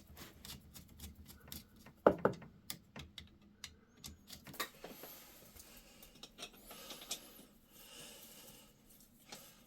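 Light, irregular clicks and taps of hand tools and pipe fittings being handled, with one louder knock about two seconds in.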